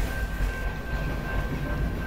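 Freight train's centerbeam lumber cars rolling past a grade crossing: a steady, uneven low rumble of wheels on rail, with a thin steady high tone over it.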